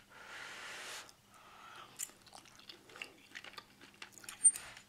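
A person chewing a mouthful of saucy chicken, with small wet clicks and smacks of the mouth. It begins with a breathy rush of air for about a second, and a sharper click comes near the end.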